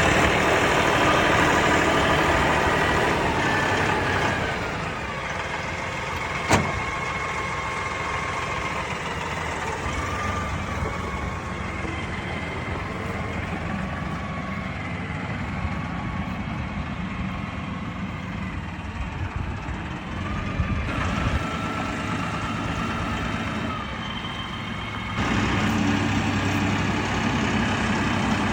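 Tractor engine running steadily under a whine that shifts in pitch, with a single sharp click about six seconds in. The engine gets louder about 25 seconds in.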